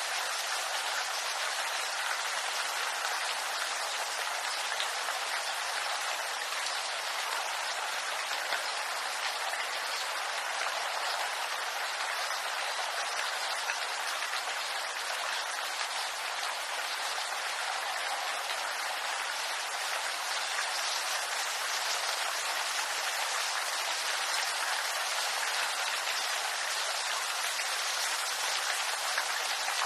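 Steady rain falling on bamboo leaves, a dense even patter of drops with no let-up.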